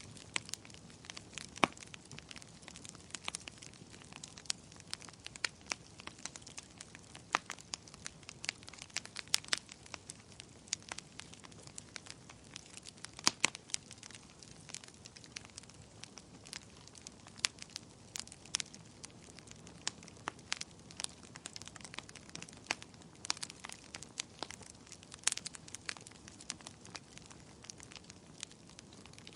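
Campfire crackling: irregular sharp pops and snaps, some much louder than others, over a low steady hiss.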